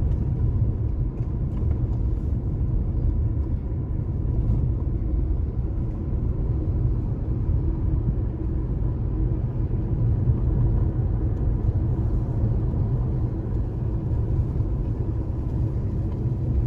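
Car driving along, heard from inside the cabin: a steady low road and engine rumble that keeps an even level throughout.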